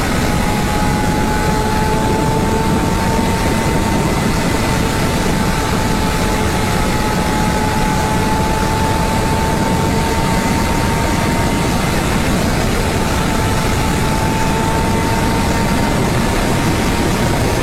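Honda CBR600RR inline-four with a LeoVince exhaust running hard at high revs. Its note climbs slowly for the first several seconds, then holds steady. It sounds under heavy wind rush on the microphone.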